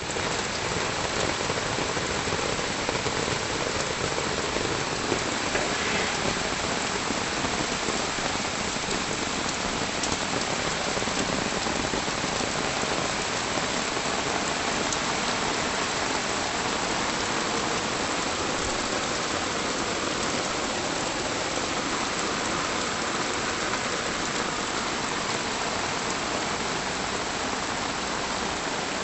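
Steady, heavy rain falling, an even dense hiss that keeps up without a break.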